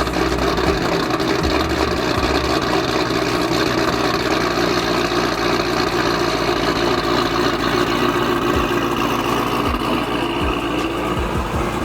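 Corvette V8 idling steadily just after a cold start.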